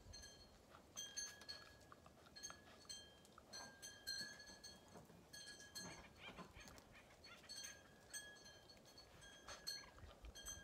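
Faint, repeated short chirps from a bird, all at the same high pitch, one or two a second.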